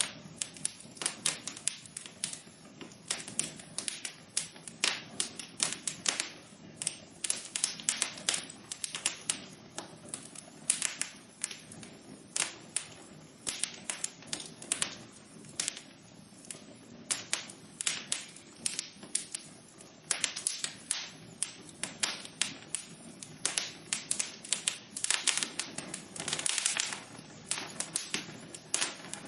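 Wood fire burning in a fireplace, crackling with many irregular sharp pops and snaps over a soft, steady low background.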